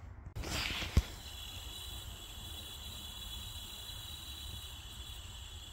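A worn alternator bearing being turned, giving a steady, high-pitched grinding whine after a handling rustle and one sharp knock about a second in: the sound of a broken bearing, a sign that the alternator has done its mileage.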